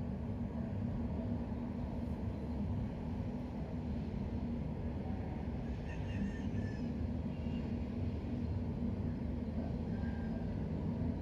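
Steady low rumbling background noise, with a few faint short high chirps about halfway through and near the end.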